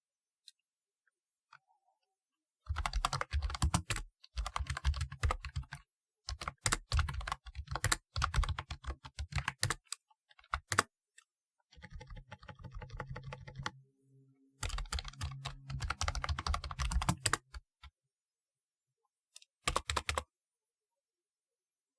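Typing on a typewriter-style keyboard: fast runs of key clicks in bursts of one to a few seconds, separated by short pauses. A softer stretch comes around the middle, and a brief last burst comes near the end.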